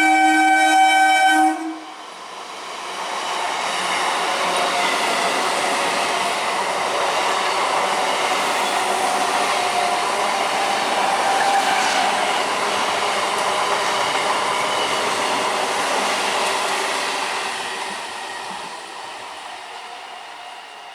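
An Indian Railways train sounds one long horn blast that cuts off after about a second and a half, then passes at speed: the rush and rattle of wheels on rail builds, holds steady for about fifteen seconds, and fades near the end.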